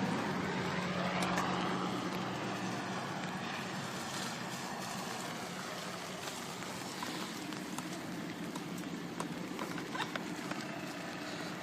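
A passing engine fading away, its steady hum dying down over the first few seconds, leaving outdoor background noise with a few faint clicks.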